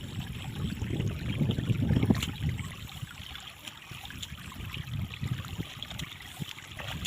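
Water sloshing and trickling, fuller in the first couple of seconds and then quieter, with a few faint clicks.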